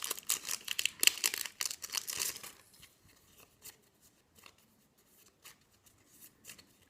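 A foil Yu-Gi-Oh booster pack crinkling and being torn open, a quick run of sharp crackles and rips. About two and a half seconds in it drops to faint, scattered soft clicks.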